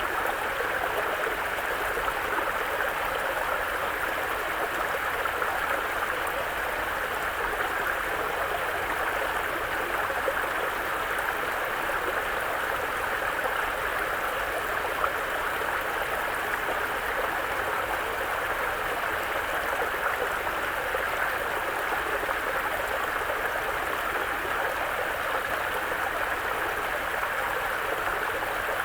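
Mountain brook flowing over rocks: a steady, even rush and babble of water.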